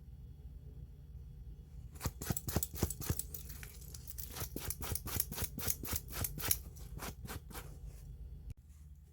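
A quick run of short scraping strokes, about three to four a second, from hand work on an old watch. It starts about two seconds in and cuts off abruptly near the end.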